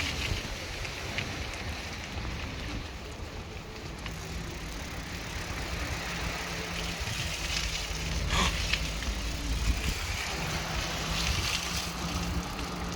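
Bicycle riding: wind rumbling on the microphone and tyres rolling on paving, with a faint steady hum through much of it and one short sharp click about eight seconds in.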